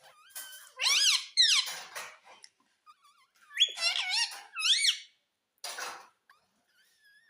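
Pet ring-necked parakeet making shrill squeaky calls that sweep rapidly up and down in pitch, in two bursts about a second in and around four seconds in, followed by a short raspy squawk near six seconds.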